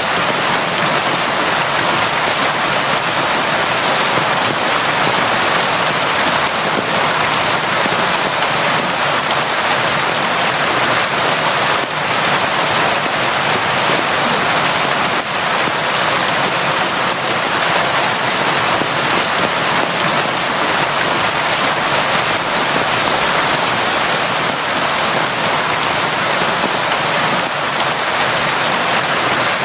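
Steady, heavy rain falling on a surface: an even, dense hiss without pauses.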